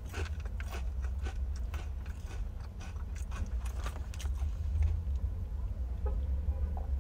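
Close-up crunching and chewing of crisp chips: a quick run of crisp crunches for the first four seconds or so, thinning out to a few faint ones after that, over a steady low hum.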